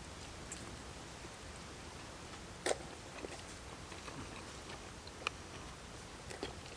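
Quiet chewing on food, with a few scattered short crisp clicks; the loudest comes a little under three seconds in.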